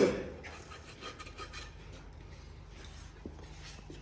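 Farrier's rasp filing the toe of an overgrown horse hoof wall to take away the dorsal flare and dish. There is a run of short scraping strokes in the first two seconds, then fainter rubbing.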